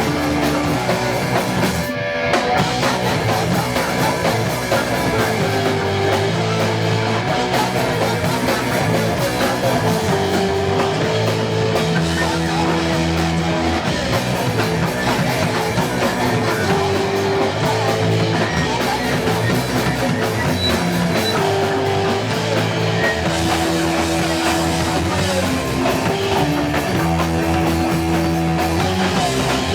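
Punk rock band playing live, with guitar and drums. The sound is loud and dense, with held low notes, and drops briefly about two seconds in.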